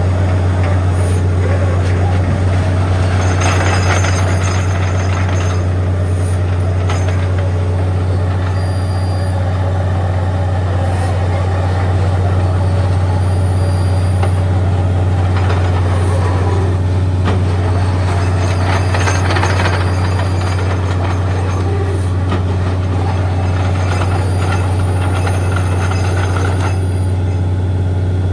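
Truck-mounted borewell drilling rig running steadily: a loud, continuous engine drone with a strong low hum, and louder hissing surges around four seconds in and again near twenty seconds.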